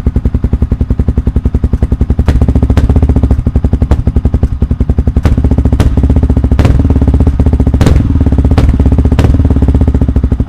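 Yamaha WR 155's single-cylinder engine running at idle through a GP7 full-system aftermarket exhaust, a loud, rapid, even pulsing. The engine swells louder twice, with a few sharp cracks.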